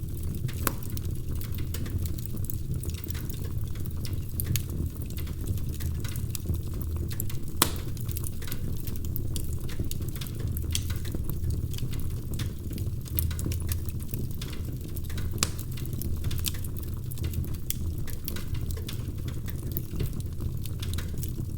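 Wood fire crackling: a steady low rumble with frequent sharp pops and snaps, one louder pop about a third of the way in.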